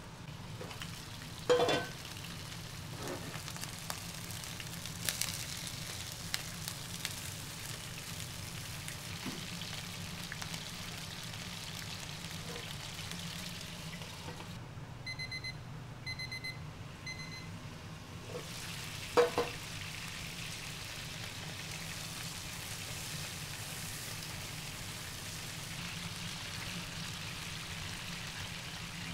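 Sausages frying with a steady sizzle, broken by a few sharp clatters, the loudest about a second and a half in and again about two-thirds of the way through. Partway through, the sizzle briefly drops away while three short runs of high electronic beeps sound.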